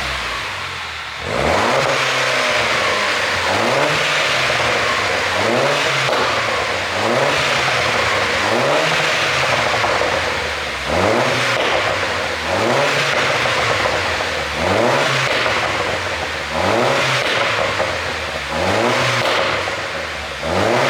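2010 MINI Cooper S R56's turbocharged 1.6-litre four-cylinder engine, on an ECU tune made for exhaust pops, being revved over and over. The engine note rises and falls about every two seconds in quick throttle blips.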